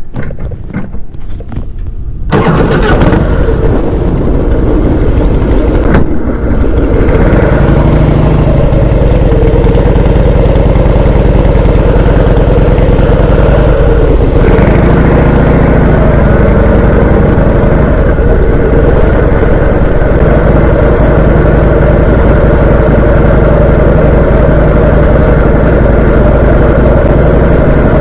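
A vehicle engine starts about two seconds in and then runs steadily and loudly, with a brief rise and fall in its pitch about halfway through.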